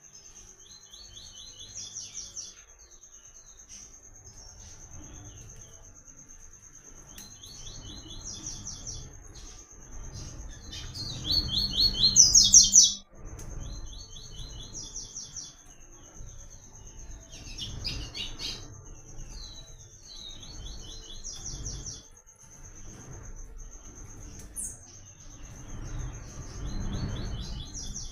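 Double-collared seedeater (papa-capim, or coleiro) singing repeated phrases of quick, high chirping notes every few seconds, loudest about twelve seconds in, over a steady high-pitched buzz.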